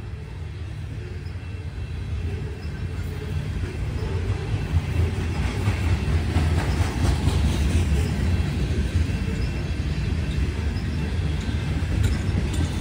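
CSX coal train passing with its diesel locomotives on the head end: a steady low engine drone that grows louder over the first few seconds, then wheels clicking over the rail joints.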